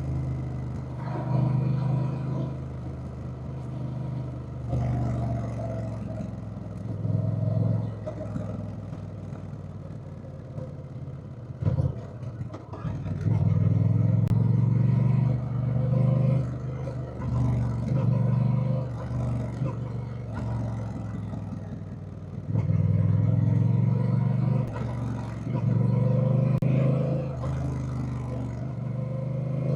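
Honda Rebel 1100's parallel-twin engine running while riding. It grows louder several times as the throttle opens and eases off between, with a brief clatter of sharp knocks about twelve seconds in.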